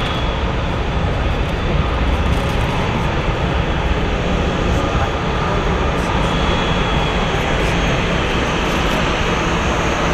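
Four jet engines of a Boeing 747-400F freighter running at takeoff thrust: a steady, loud rush of engine noise with a deep rumble underneath and a faint high whine.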